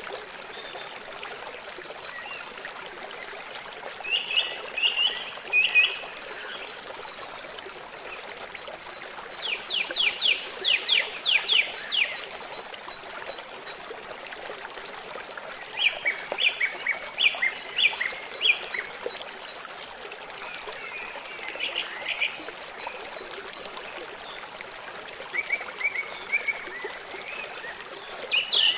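A stream running steadily, with a songbird singing a phrase of rapid, high, short notes about every five or six seconds.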